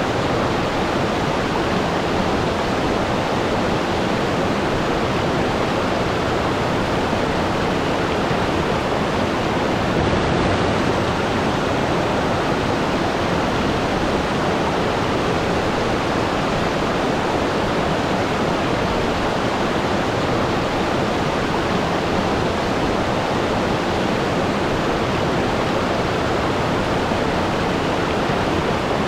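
Waterfall: water falling, a steady, even rush with no breaks.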